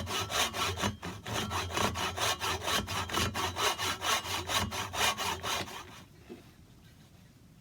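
Hand saw cutting wood in quick, even back-and-forth strokes, about five a second, stopping about six seconds in.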